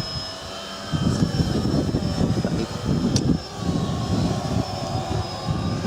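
Electric radio-controlled model aircraft in flight, its motor giving a steady high whine, with a low rumbling noise coming in about a second in.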